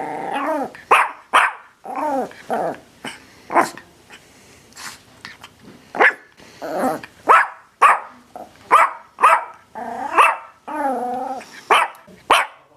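Dogs barking over and over: short, sharp barks at uneven spacing, mixed with a few longer calls that bend in pitch.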